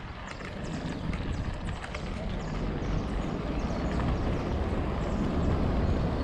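Wind and rolling noise from a mountain bike being ridden, a steady rush with low rumble and light rattling clicks, growing slightly louder.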